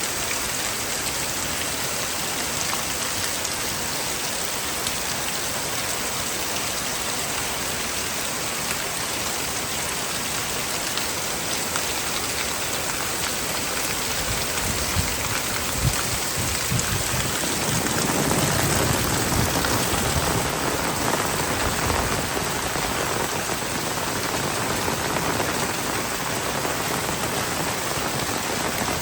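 Heavy rain pouring steadily. About two-thirds of the way through it swells louder for several seconds, with a deep low rumble, then settles back.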